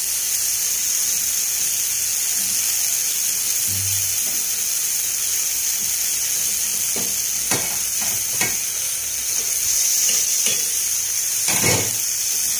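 Spiced chicken sizzling steadily in a wok (kadai) as fresh coriander leaves are stirred in, with a few sharp knocks and scrapes of a metal spatula against the pan in the second half.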